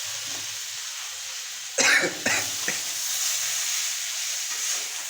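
Potatoes frying in oil in a pan covered with a plate, giving a steady sizzle. About two seconds in, two short loud noises stand out over the sizzle.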